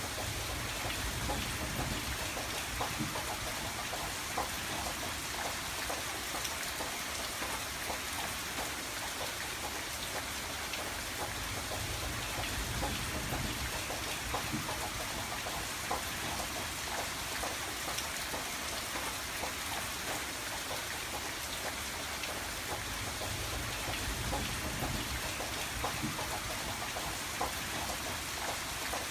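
Steady rain falling on a window, with a dense patter of small drop ticks over an even hiss and a soft low rumble that swells and fades slowly.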